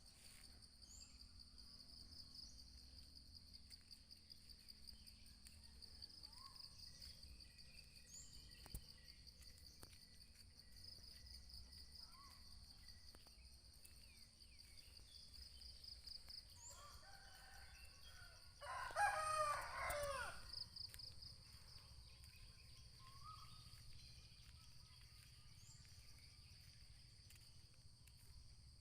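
A rooster crows once, about two-thirds of the way in, over a steady high-pitched background hum and a few short bird chirps.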